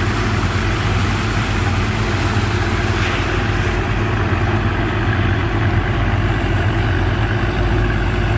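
Engine driving a sand boat's pump, running steadily with a low drone and a constant rushing hiss over it.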